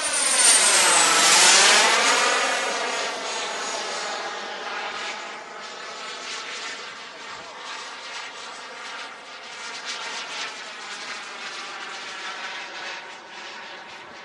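Model jet's gas turbine engine flying close past: a loud rush with a high whine that drops in pitch as it goes by in the first two seconds, then steady, fainter jet noise as it draws away.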